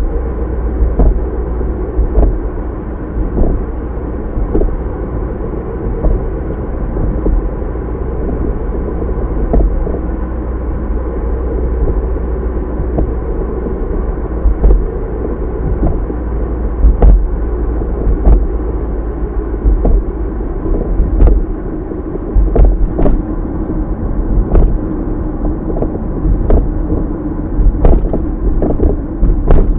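A car on the move heard through its dashcam: a steady low rumble of road and engine noise, with scattered brief knocks.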